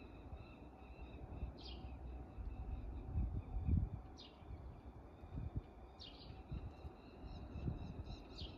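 Small birds calling, four short high chirps a couple of seconds apart, over an uneven low rumble and a faint steady high tone.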